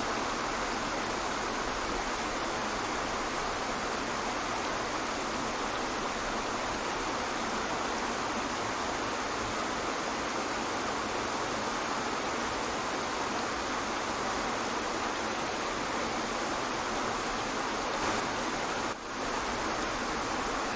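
Waterfall rushing: a steady, even hiss of falling water, with a brief dip in loudness near the end.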